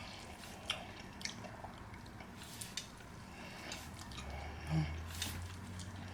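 A person chewing food, with soft, wet mouth clicks and smacks every second or so.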